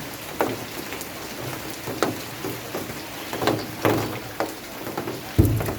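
Rain falling with a steady hiss, with large drops striking a surface at irregular intervals. A louder, dull thump comes near the end.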